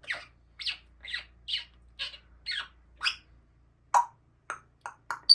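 African grey parrot giving a run of short, evenly repeated calls, about two a second, then a few shorter, sharper calls near the end.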